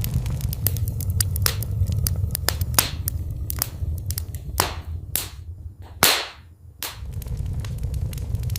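Wood fire in a fireplace crackling: many sharp pops over a low, steady rumble, with a run of louder, longer pops in the second half, the loudest about six seconds in, as the rumble briefly drops away.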